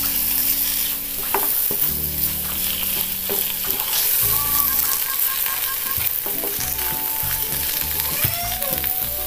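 Tomato and potato masala sizzling in a nonstick frying pan while a wooden spatula stirs and scrapes through it, the ground spices frying in the oil.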